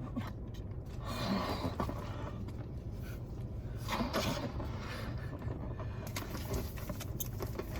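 Low steady hum with scattered rustling and scraping handling noises.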